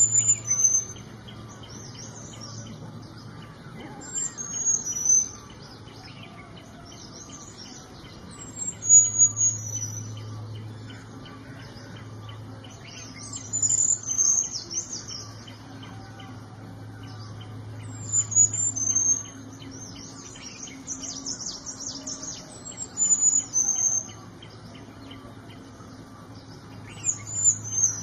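Small niltava singing: short, very high, thin phrases that slide down in pitch, repeated about every four to five seconds. Beneath them run a faint steady pulsing, like an insect, and a low hum.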